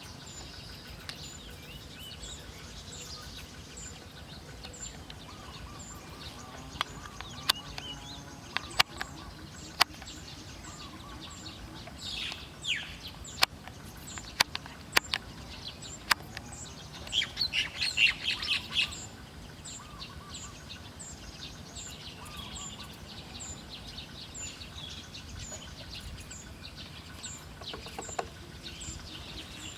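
Wild birds chirping, with a quick, loud run of chirps midway and a falling call shortly before it. Sharp clicks come now and then, and a faint high tick repeats regularly underneath.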